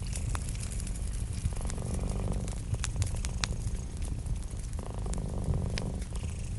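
A cat purring in long rhythmic phrases, strongest about a second and a half in and again about five seconds in, over a crackling wood fire with sharp scattered pops.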